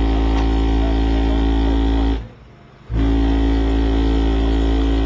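Car audio subwoofers playing a continuous, heavily distorted deep bass tone at competition level during an SPL endurance run. The bass cuts out for under a second a little over two seconds in, then comes back at full level.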